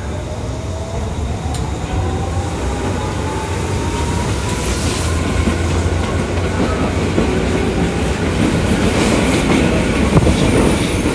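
Electric commuter train running on the Tokyu Toyoko Line: a motor whine rising in pitch as the train gathers speed, fading out about halfway through, over a steady rumble of wheels on rail that grows louder, with a few wheel clacks at rail joints.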